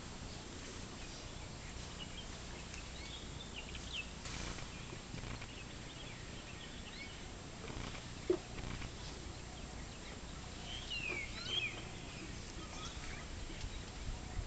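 Wild birds calling in short high chirps, a few about four seconds in and a cluster about eleven seconds in, over a low steady hum. One short sharp sound, the loudest moment, about eight seconds in.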